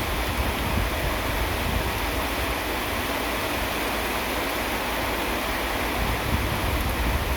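Steady heavy rain falling: a dense, even hiss with a low rumble underneath.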